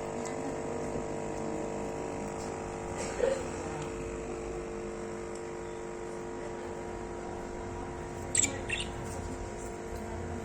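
Pet lovebirds giving short, high chirps, once about three seconds in and again as a quick pair near the end, over a steady hum.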